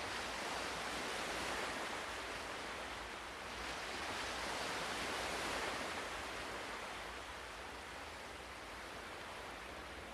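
Ocean waves washing on a shore: an even rush of surf that swells twice and eases off.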